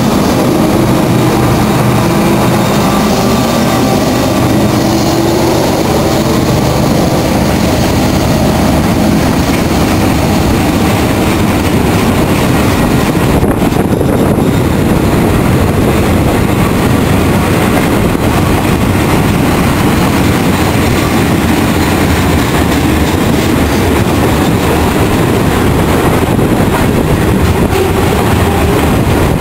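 Union Pacific manifest freight train rolling past, loud and steady: a diesel locomotive drone fades over the first several seconds, then the constant noise of freight cars' wheels on the rails.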